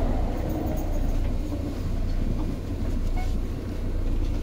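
Seibu 2000 series electric commuter train running, a steady rumble of wheels on rail and running gear.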